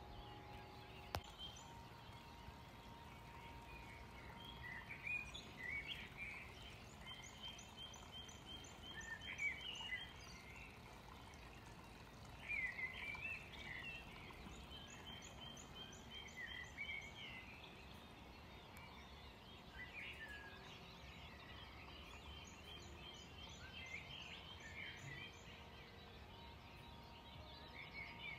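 A songbird singing in three bouts of a few seconds each: varied chirps with a rapid, evenly spaced trill, over faint outdoor background noise. There is one click about a second in.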